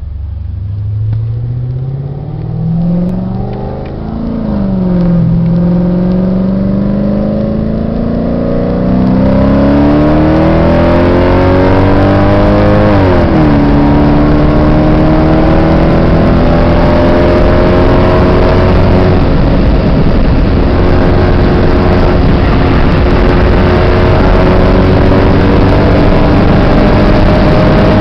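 Mercedes-Benz CLK500's V8 accelerating hard, heard from inside the cabin. The engine climbs in pitch, dips briefly about four seconds in, and drops sharply at an upshift from third to fourth about thirteen seconds in. It then climbs slowly again while road and wind noise grow louder.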